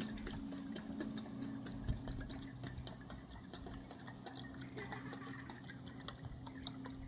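Running water splashing and trickling with many small drips, under a steady low hum that stops near the end.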